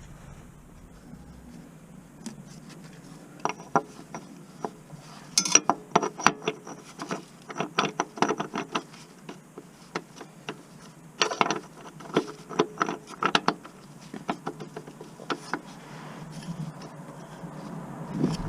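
Hand tool work on the car: a run of irregular metallic clicks and rattles, coming in two bursts with a pause between.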